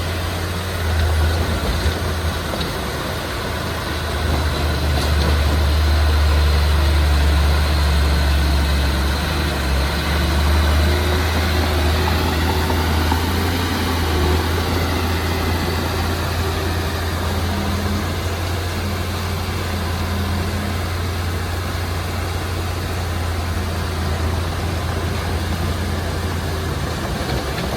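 Heavy earthmoving machine's diesel engine running steadily with a deep drone, growing louder a few seconds in and easing back slightly after about ten seconds.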